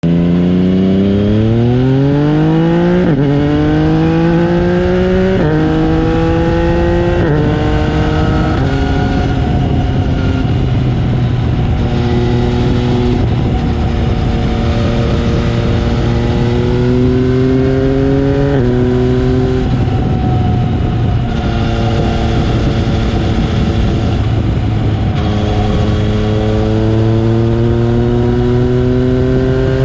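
Yamaha MT-09's three-cylinder engine through an Akrapovic carbon full exhaust, accelerating hard through the gears: the note climbs and drops back at four quick upshifts in the first nine seconds, then rises more slowly with a couple of later upshifts.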